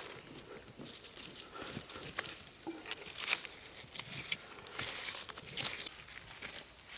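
Irregular rustling and crackling in bursts, with sharp clicks, like dry material being handled or trodden; it dies away near the end.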